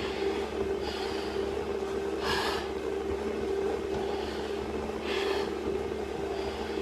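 A man breathing hard while working out on a vertical climbing machine, one forceful breath about every two and a half seconds, over a steady low hum.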